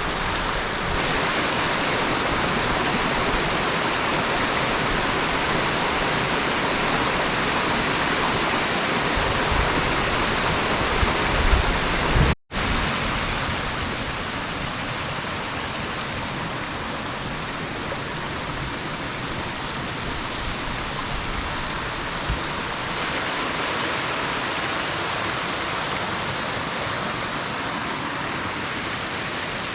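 Steady rush of flowing river water. It cuts out for an instant about twelve seconds in and comes back a little quieter.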